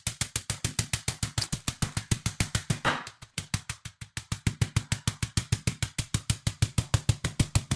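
Rapid, even run of thuds, about eight a second, from chicken breasts being pounded flat between sheets of parchment, played sped up and turned down.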